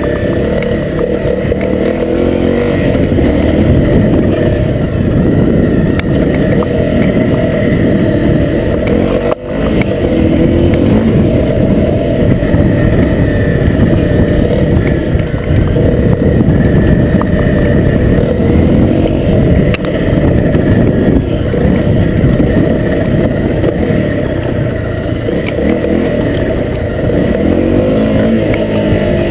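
Honda CRF250L's single-cylinder four-stroke engine revving up and down while the dirt bike is ridden along a trail.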